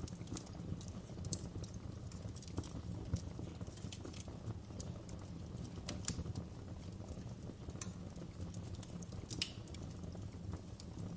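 Fireplace crackling: a steady low rumble of burning wood with irregular small pops and snaps scattered throughout.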